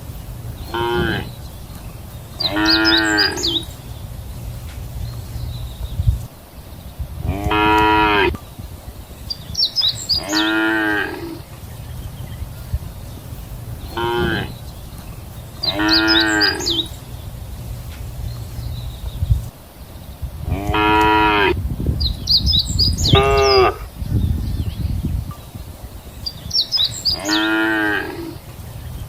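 Cattle mooing over and over, calling in pairs: a short moo followed about two seconds later by a longer one, the pair recurring about every six seconds. A steady low rumble runs underneath.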